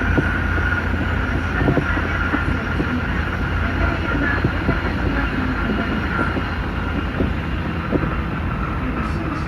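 Tsukuba Express electric train running at speed: a steady rumble with a faint steady whine and scattered light clicks from the wheels on the track.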